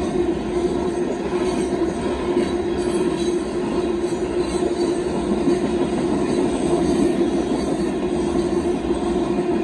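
Union Pacific gravel hopper cars rolling quickly past a grade crossing: a steady, loud rush of steel wheels on rail with a constant mid-pitched note running through it.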